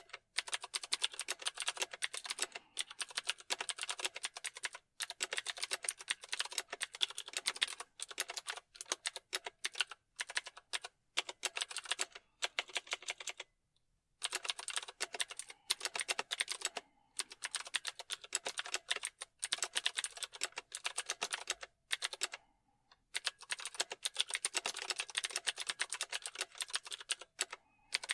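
Typing on a computer keyboard: fast runs of key clicks, broken by a few short pauses.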